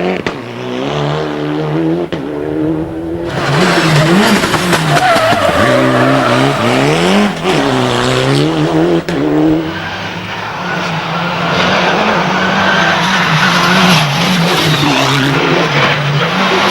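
Mitsubishi Lancer Evolution IV WRC rally car's turbocharged four-cylinder engine running hard, its revs rising and falling again and again, with a few sharp pops from its anti-lag misfiring system. It gets louder about three seconds in.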